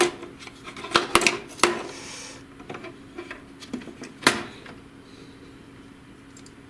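Clicks and knocks of plastic and metal parts of an HP DeskJet GT 5820 inkjet printer being handled as a metal part is worked out of its mechanism, with a short scrape about two seconds in and a sharp click just past four seconds. After that only a faint steady hum remains.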